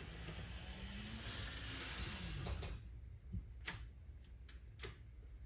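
Small electric motor of an N scale model locomotive running on the layout, a faint whine whose pitch rises and then falls as the speed changes. About five sharp clicks follow in the second half.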